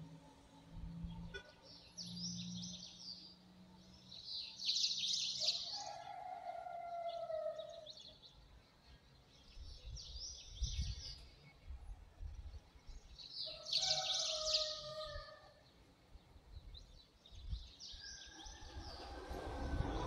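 Small birds chirping and singing in short bursts every few seconds, with lower falling whistles twice.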